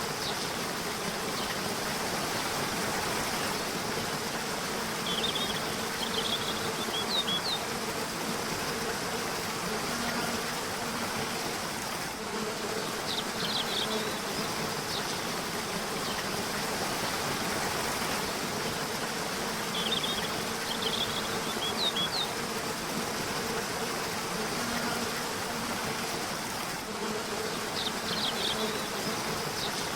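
Steady rush of a river with short bursts of high bird chirps every several seconds, and a faint low buzz that comes and goes.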